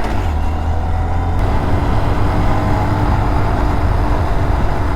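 Small motorcycle engine running at a steady cruise while riding, with wind rushing over the microphone.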